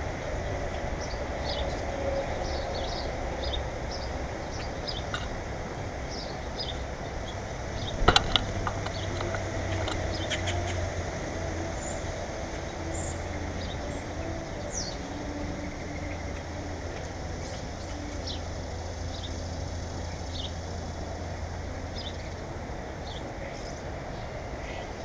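Small birds chirping in short, repeated calls over a steady low rumble, with a sharp knock and a couple of quick taps about eight seconds in.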